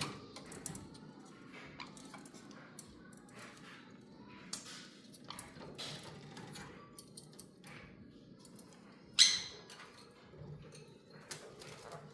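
Pet parrots making small clicks, scratches and soft chirps, with one short, loud sound about nine seconds in.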